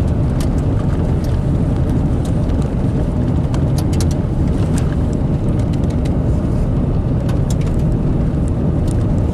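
Car driving, a heavy steady road rumble with many small clicks and rattles scattered through it.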